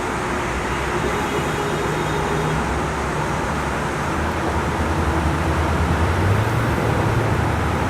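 Steady rain falling hard in a severe thunderstorm, with a low rumble that swells about two-thirds of the way through.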